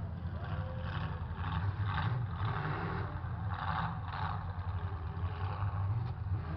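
Demolition derby trucks' engines running with a steady low rumble, broken by several short, louder surges.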